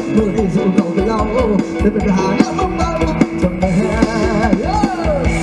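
Live mor lam sing band music: a fast drum-kit beat under a lead melody with sliding, bending notes.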